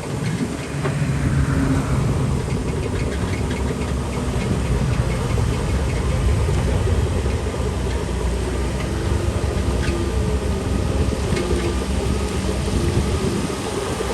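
Heavy diesel engine of earthmoving machinery running steadily, with scattered metallic clanks and rattles. About a second in, a pitch glides down as the engine eases off.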